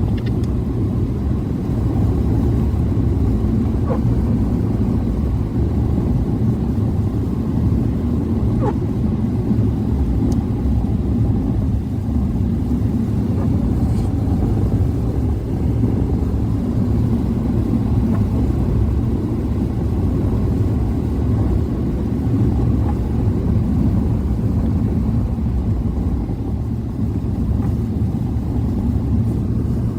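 Steady low road and tyre rumble heard inside the cabin of a 2014 Chevrolet Spark EV driving in freezing rain, with no engine note since the car is electric, and the ventilation fan running to keep the windshield from fogging.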